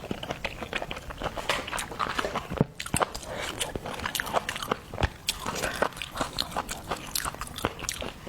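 A person eating close to the microphone: wet chewing, lip smacks and sharp mouth clicks, coming quickly and irregularly.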